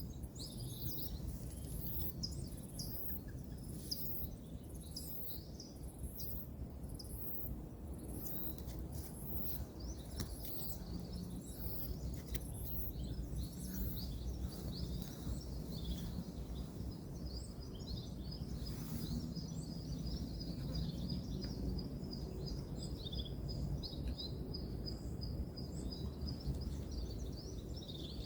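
Wild birds chirping and calling over a steady low rumble of distant road traffic. A repeated high chirp comes about once a second in the first half, and a long rapid trill runs through the second half.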